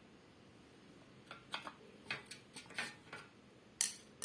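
Light metallic clicks and clinks of tools and bolts on a ceiling fan's blade fittings: about a dozen in irregular succession starting about a second in, the loudest near the end.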